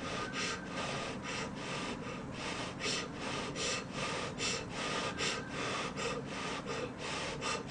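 Close-miked mouth sounds of eating soft rice porridge (brown-rice nurungji soup): wet chewing and breathing in an even rhythm of about two strokes a second.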